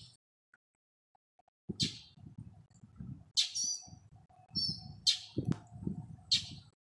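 A small bird giving sharp, high calls, four of them about every one and a half seconds, starting after a short silence.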